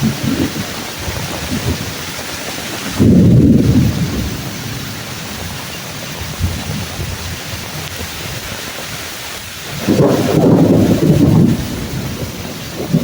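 Steady heavy rain falling on tree leaves, with two loud low thunder rumbles, one about three seconds in and a longer one about ten seconds in.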